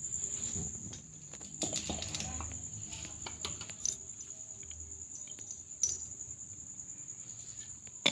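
Steady high-pitched chirring of insects, with a few scattered sharp clicks and knocks.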